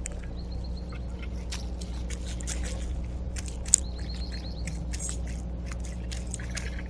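Small birds at a backyard feeder: a scatter of short sharp ticks, with a few brief high, steady-pitched call notes and one louder click about halfway through, over a steady low hum.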